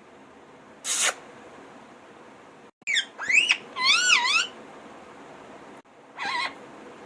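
Alexandrine parakeet calling: a harsh screech about a second in, then a run of whistled calls that rise and waver in pitch, and a short call near the end.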